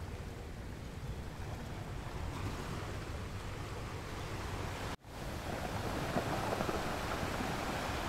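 Ocean surf breaking and washing over rocks as a steady rushing noise. It cuts out for a split second about five seconds in, then comes back louder.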